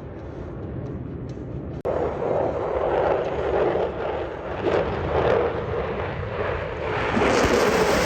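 Jet engine noise of F-16 fighter jets flying past: a loud, rushing sound that jumps up sharply about two seconds in and swells and fades in waves.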